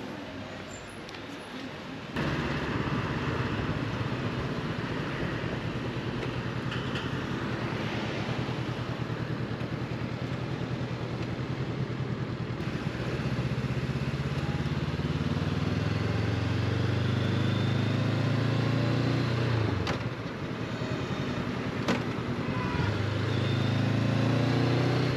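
Honda CB500X parallel-twin motorcycle engine running under way. It starts up loud a couple of seconds in, climbs in pitch as the bike speeds up, drops off briefly, then pulls again near the end.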